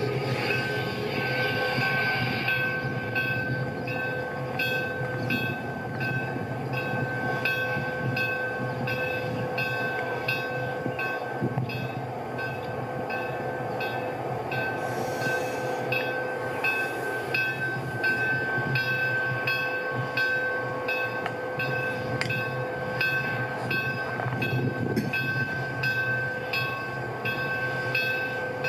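Railway train running: a steady hum with a few held tones and a regular ticking about one and a half times a second.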